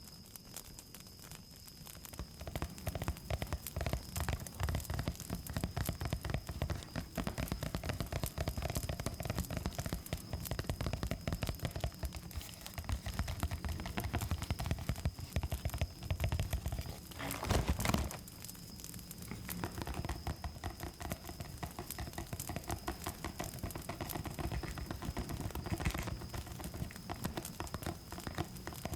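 Dense close-miked rustling and pattering from ASMR trigger objects handled on the microphone, with a louder rustle about 17 seconds in. Under it runs a steady high cricket chirr from the ambience track.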